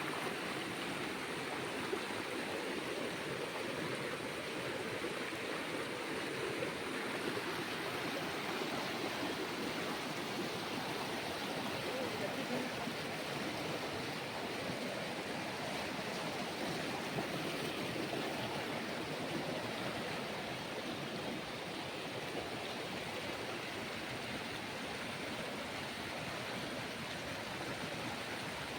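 Stream flowing, a steady, unbroken rush of running water.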